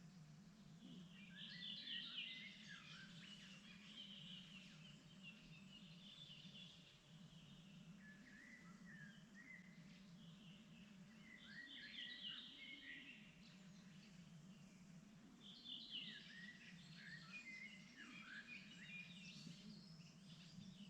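Faint spring birdsong: several songbirds chirping and warbling in bursts every few seconds, over a steady low background hum.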